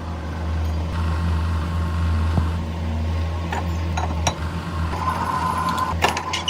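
A machine runs with a steady low hum, with a few sharp metallic clicks scattered through it. A steady higher tone joins the hum near the end.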